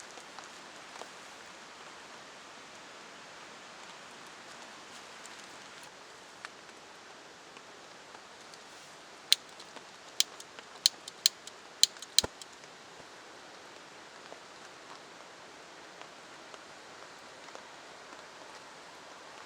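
Steady rain falling, with a quick run of about seven sharp clicks or taps a little before the middle.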